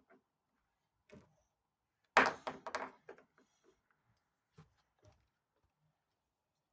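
Small plastic toys being handled and set down on a hard surface: a few light knocks, with a short clatter about two seconds in that is the loudest part.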